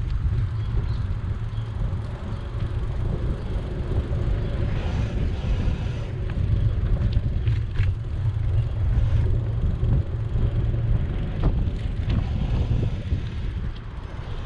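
Steady low rumble of wind buffeting the microphone and road noise from a moving bicycle, with a few light clicks and rattles in the second half.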